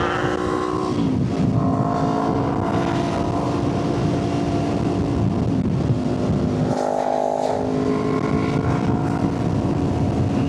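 Motorcycle engine running on the move, with wind noise over the mic. The engine's pitch drops about a second in as the revs fall, then holds steady with a brief change near seven seconds.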